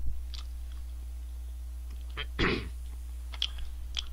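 Mouth noises of someone eating French fries: a few soft clicks and smacks, with one louder mouth noise about two and a half seconds in, over a steady low electrical hum.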